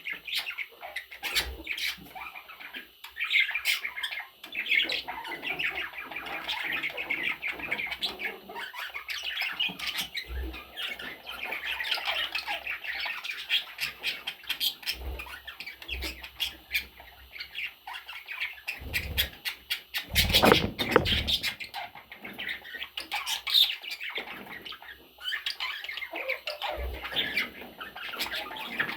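Pet budgerigars chattering and squawking, a busy warbling chatter that never stops, with a louder rustling thump about twenty seconds in.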